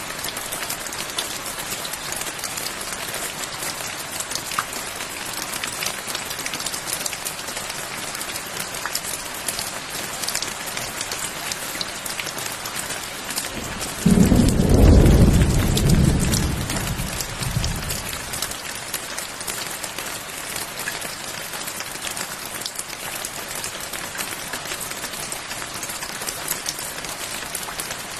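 Steady rain pattering. About halfway through, a single deep roll of thunder breaks in suddenly, loud for about four seconds, then fades back under the rain.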